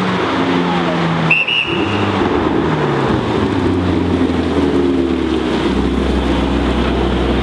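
Porsche 918 Spyder's 4.6-litre V8 running as the car moves slowly, its pitch stepping up and down in short rises, then settling to a steady low idle near the end.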